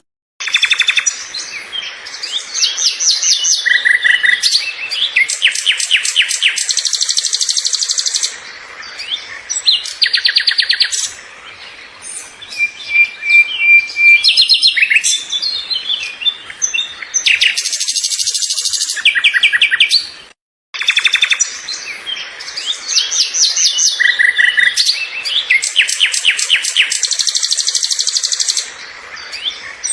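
Songbird singing in repeated phrases of rapid high trills and chirps, with short pauses between them. The sound cuts out briefly about two-thirds of the way through.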